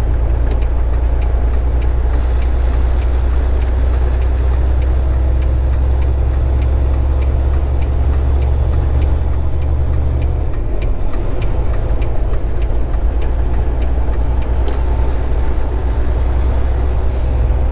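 Semi truck's diesel engine and road noise heard inside the cab while cruising on the highway, a steady low drone.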